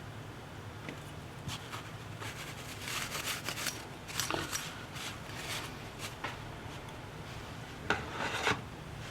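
Short scraping and rubbing strokes with scattered clicks, from hand tools working on a tablet's parts. They come in a cluster through the first half and in a louder pair near the end, over a steady low hum.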